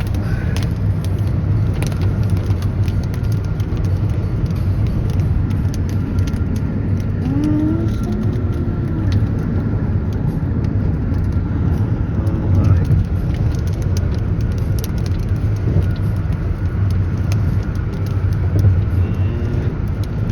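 Car driving in rain: a steady low road-and-engine rumble with many small scattered ticks over it.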